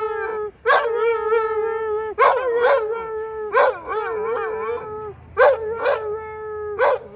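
A dog howling on cue, a string of long held notes, each new howl starting with a sharp rise about every second and a half, the pitch wavering up and down in the middle.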